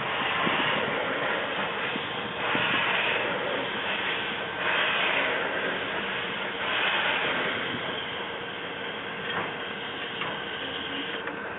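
Narrow-gauge steam train pulled by 2-8-0 locomotive 315, running along the line. It makes a continuous rumble and hiss that swells louder about every two seconds.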